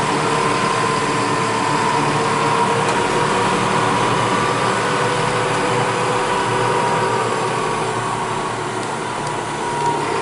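Fendt 211 tractor engine running steadily while driving, heard from inside the cab, with a constant whine over the engine noise.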